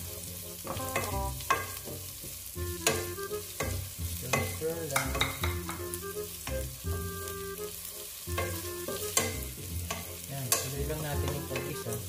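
Garlic and onion frying in oil in a pan, sizzling steadily while a spatula stirs them, clicking and scraping against the pan every half second or so.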